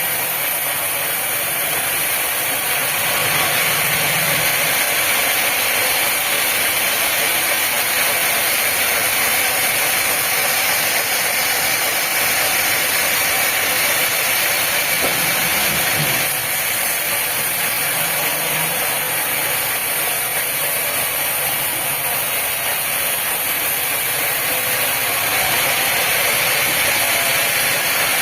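Sawmill machinery running steadily: a constant mechanical noise that holds at one level throughout.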